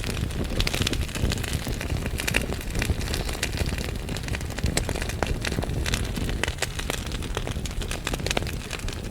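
Wood fire burning in a fireplace, logs crackling with many quick sharp pops over a steady low rumble of flame.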